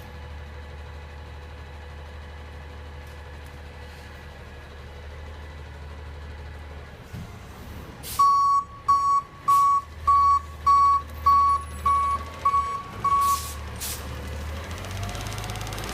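Garbage truck idling with a low steady rumble, then its reversing alarm beeping about nine times, roughly one and a half beeps a second, as the truck backs up. A short hiss follows right after the beeping stops.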